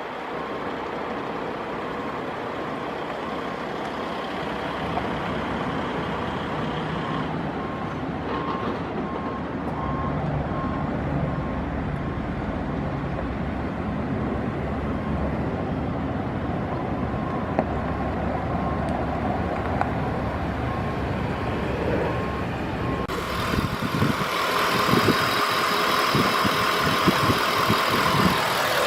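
Ford F-150 pickup's engine idling steadily, with a faint evenly repeating electronic beep at times. From about 23 seconds in, the sound turns louder and rougher, with some knocks.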